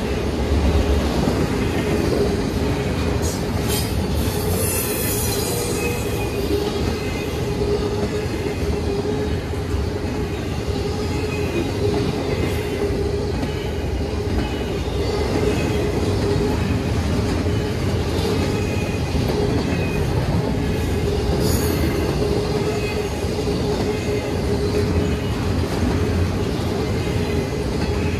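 Double-stack intermodal freight train's cars rolling past at a grade crossing: a steady rumble of wheels on rail with a sustained high tone over it, and brief high-pitched flares about four seconds in and again around twenty-one seconds in.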